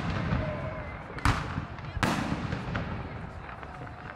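Aerial fireworks shells bursting overhead: sharp bangs about a second and two seconds in, a smaller one near three seconds, with rumbling echoes and crackle between.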